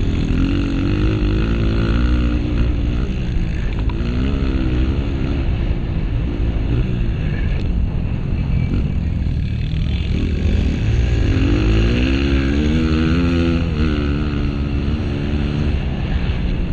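Honda CRF230 single-cylinder four-stroke dirt bike engine revving up and easing off again and again as it is ridden hard, climbing most strongly about eleven seconds in, over a constant low rumble.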